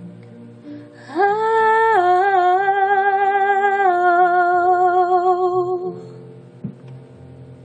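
A female singer holds one long wordless note. She swoops up into it about a second in, sustains it with vibrato, and lets it go at about six seconds, over soft plucked-guitar accompaniment.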